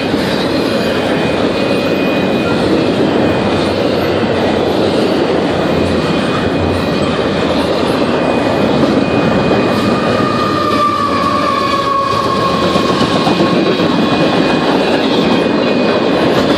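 CP freight train of double-stack container cars rolling past at close range: steady clatter of wheels on the rails. A faint squeal comes in about ten seconds in and fades a few seconds later.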